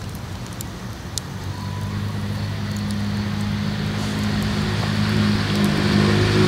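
A motor engine's steady low hum, growing gradually louder, with a few sharp clicks over it.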